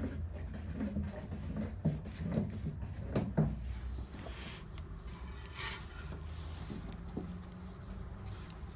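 Light handling sounds: several sharp knocks and clicks in the first few seconds, then softer rubbing and scraping, over a steady low rumble.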